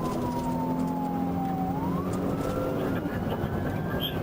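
Police car siren wailing in slow sweeps: it falls for nearly two seconds, rises again and starts to fall near the end. Underneath, a steady engine hum drops away about three seconds in, over constant road noise.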